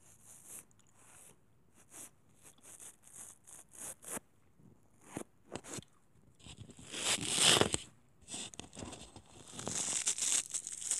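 Close-miked ASMR trigger sounds: a run of short crackling, crinkling handling noises that come thicker and louder as it goes, with a longer, louder one about seven seconds in.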